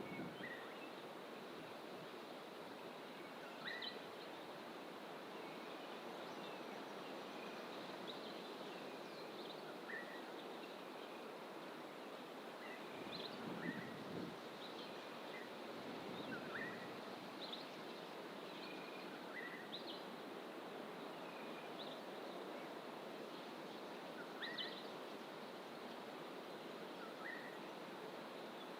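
Small birds in fynbos bush giving short, sharp calls every few seconds, over a steady rushing background.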